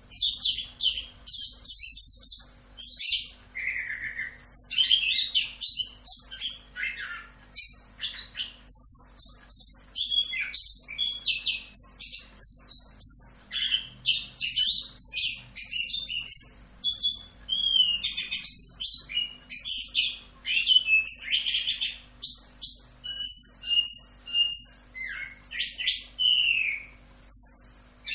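Chestnut-capped thrush (anis kembang) singing a long, unbroken run of rapid chirps, trills and whistled slurs.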